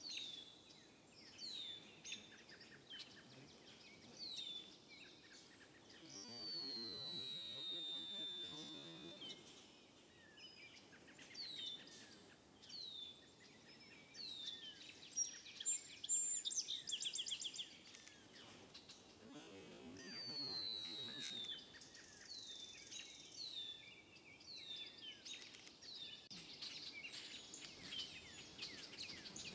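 Birds calling repeatedly with short downward chirps, joined twice by a longer falling whistle and once, about halfway through, by a rapid trill.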